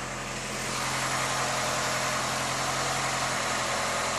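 Rebuilt Mitsubishi 4G69 2.4-litre four-cylinder engine running steadily at a fast idle of about 1500 rpm on its first run after the rebuild. It gets louder about a second in and then holds steady.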